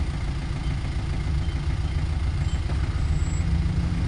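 Steady low engine rumble and road noise from an Isuzu Panther being driven, growing slightly louder after about a second and a half.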